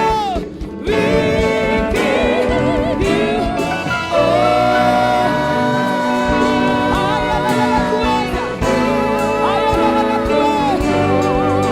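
Gospel worship song: sung vocals with vibrato over sustained keyboard chords and a bass line.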